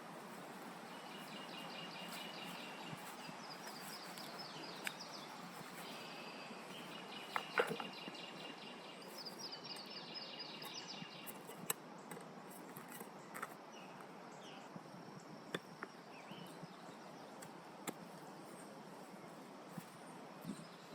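Birds singing rapid high trills over a steady background hiss during the first half or so, with a few scattered sharp clicks throughout.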